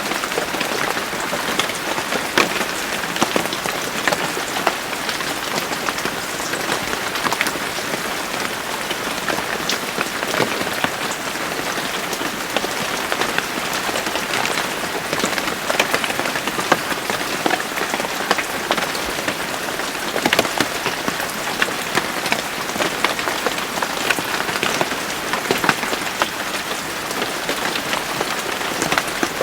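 Steady rain falling on a surface, a dense even patter with many individual drops ticking sharply through it.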